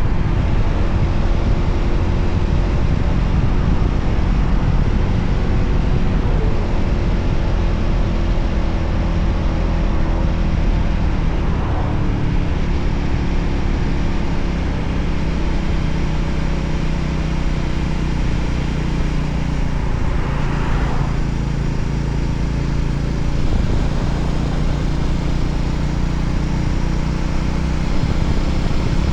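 Voge 300ACX motorcycle engine running under way, over a steady rush of wind and road noise; the engine note shifts in pitch a few times as the revs change.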